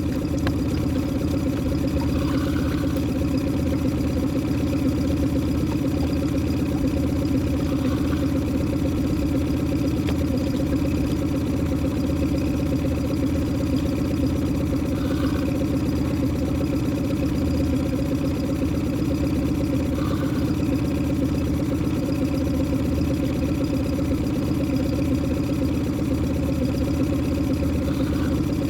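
Boat engine idling steadily, a constant unchanging hum.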